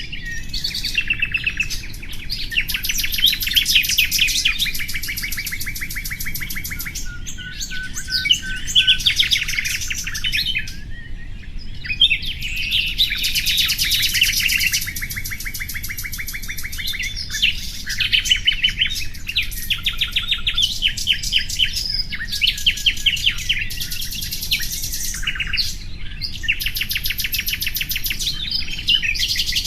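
A songbird singing a near-continuous, varied song of rapid high trills and chirps, in phrases of a few seconds with short breaks between.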